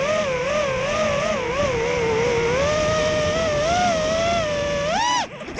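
FPV drone's motors whining, the pitch wavering up and down with the throttle. About five seconds in it surges sharply up and back down, then drops away.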